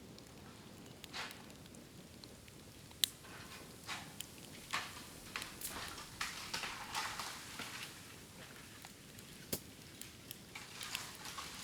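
Bamboo burning in an open bonfire, crackling irregularly with sharp pops, the loudest about three seconds in and again near ten seconds, and a spell of hissing crackle in the middle.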